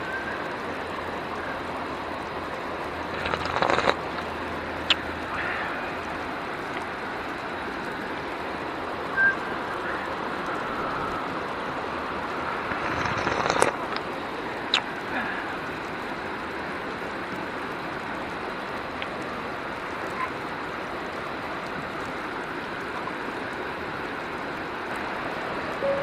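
A river flowing steadily, with a few short knocks or clicks around 4 seconds and 14 seconds in.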